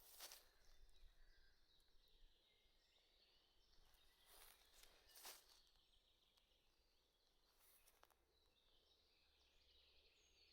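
Faint woodland ambience: distant birds chirping now and then, more of them near the end, with a few soft knocks or steps.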